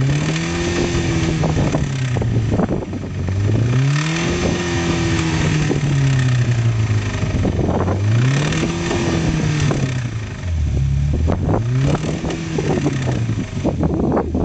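Mazda 626 engine revved up and down over and over, rising to a peak and falling back about four times, run hard in an attempt to blow it.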